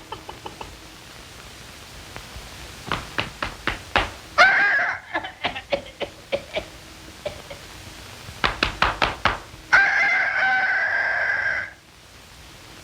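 Film sound effects: two rounds of quick knocking, each followed by a held, buzzy squawking call. The second squawk lasts nearly two seconds and cuts off suddenly.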